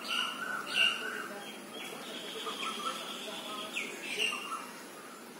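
Birds chirping in the garden: short, high calls every second or so over a faint steady background.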